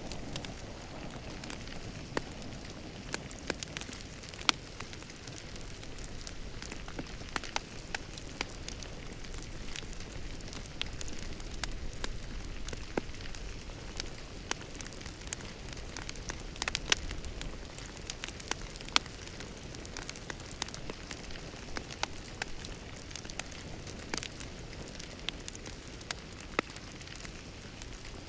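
Fireplace fire crackling: a steady soft hiss with frequent, irregular sharp pops and snaps.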